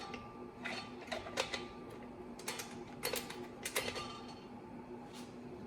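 Light metallic clicks and clinks, spread irregularly, as the discs and floater plates of a triple-disc clutch are handled and fitted onto a clutch alignment tool, over a faint steady hum.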